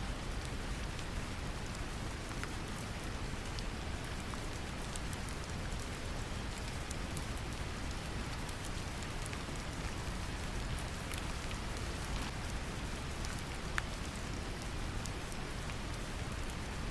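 Steady brown noise mixed with gentle rain: a deep, even rumble with a patter of small raindrop ticks scattered over it.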